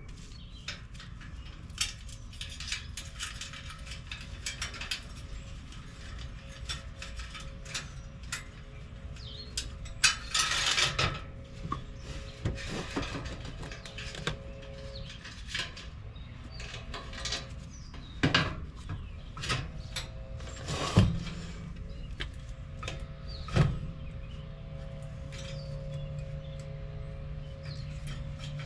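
Scattered clicks, taps and scrapes of hand work on an air conditioner's metal parts, with a few louder knocks. A low steady hum comes in during the last third.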